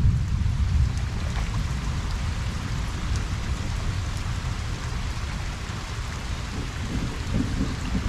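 Steady rain falling on a pond, with a low rumble of distant thunder that is strongest at the start and eases off after about a second.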